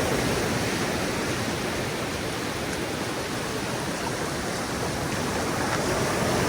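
Ocean surf washing onto the beach: a continuous rushing of breaking waves that eases a little in the middle and builds again near the end.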